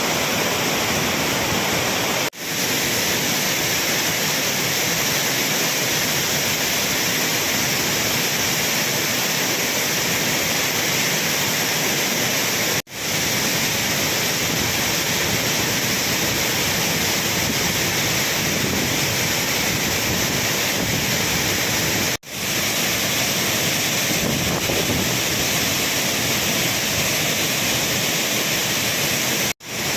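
Courtallam Falls in flood: a heavy mass of water pouring down, a loud steady rush of noise. It breaks off for an instant four times, at cuts between shots.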